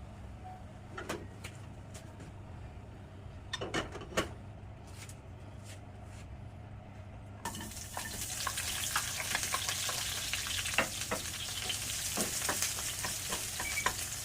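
A few clinks and knocks of a utensil against a pan, then about halfway in a sudden loud sizzling as food goes into hot cooking oil, frying on with scattered stirring clicks.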